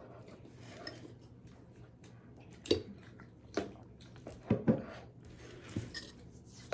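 Dishes and cutlery clinking and knocking: about half a dozen sharp clicks, two close together near the middle, over a quiet room.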